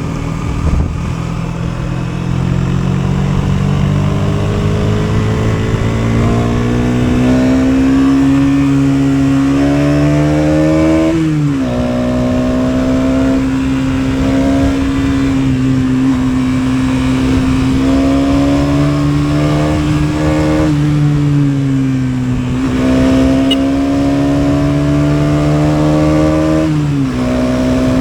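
KTM 250 Duke's single-cylinder four-stroke engine pulling under load on the move. Its pitch climbs slowly and then drops sharply at each upshift: once about eleven seconds in, and twice more in the last third.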